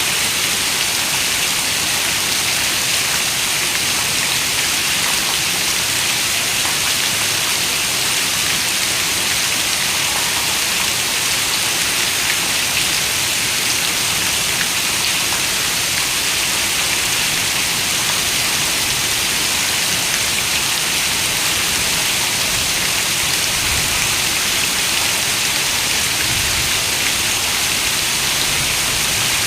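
Steady rain falling, an even hiss of many drops with no single drop or thunderclap standing out.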